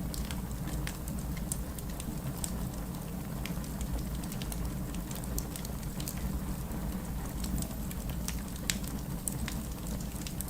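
Fireplace crackling over steady rain: scattered sharp pops and ticks at irregular intervals above an even, low rain rumble.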